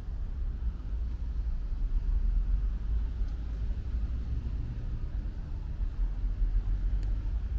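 Outdoor ambience dominated by a low, uneven rumble that swells and eases, with a few faint ticks.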